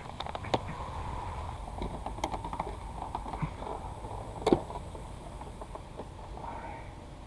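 Scattered light clicks and knocks, like tools and parts being handled, with one sharper knock about four and a half seconds in, over a low steady rumble.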